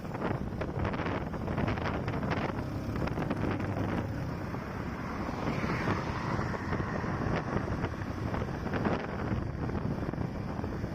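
Wind rushing over the microphone of a moving motorcycle, with the Hero HF Deluxe's small single-cylinder engine running underneath.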